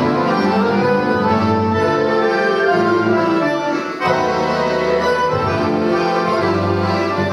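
An accordion orchestra playing together, many accordions holding full, sustained chords. About four seconds in the sound dips briefly, then a new chord comes in sharply.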